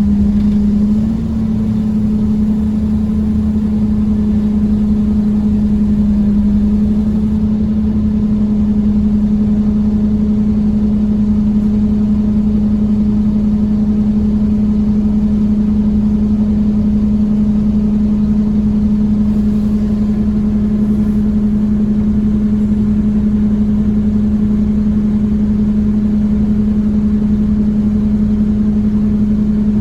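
Scania OmniCity bus's engine and drivetrain heard from on board, running steadily at cruising speed as a strong, even hum over road rumble. The pitch steps up slightly about a second in, then holds.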